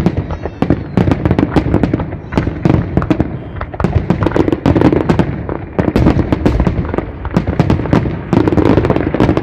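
Large fireworks display: a dense, unbroken barrage of bangs and crackles, several a second, from aerial shells and ground-level fireworks firing together.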